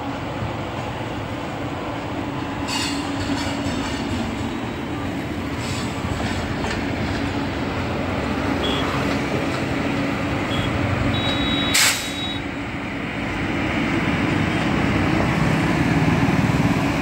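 An Indian Railways WAP-7 electric locomotive hauling passenger coaches runs toward and past the listener: a steady rumble of wheels on track with a low hum, growing louder as it nears. About two-thirds of the way through, a brief sharp click with a short high beep.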